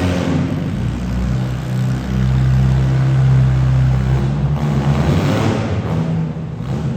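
Demolition derby car engines running loud and revving, with a deep steady engine note strongest in the middle that eases off near the end.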